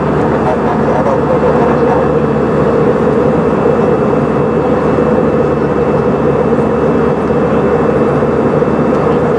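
Steady cabin noise of an Airbus A320 airliner in flight: a constant rush of airflow and engine drone, strongest in a low-middle hum, with no change in level.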